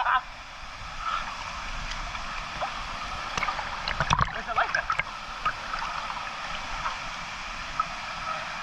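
Steady rushing of a waterfall pouring into its pool, with faint voices and short shouts of people around the water about three to five seconds in.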